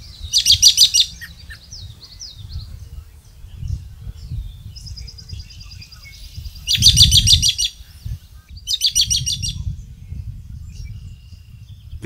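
Bird calls: three short bursts of rapid, repeated high notes, one right at the start, one about seven seconds in and one about nine seconds in. Fainter high chirps come between them, over a low background rumble.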